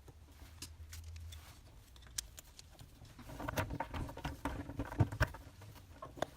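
Small clicks, taps and scraping as an LED downlight fitting is worked into its cutout in the underside of a kitchen cabinet. The handling grows busier in the second half, with two sharper knocks about five seconds in.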